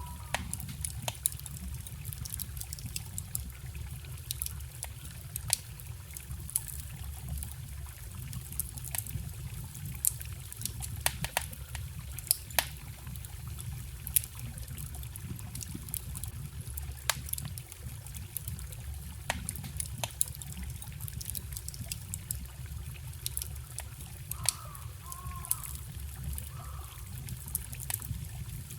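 Wood fire crackling, with frequent sharp pops, over the steady low rush of a forest stream.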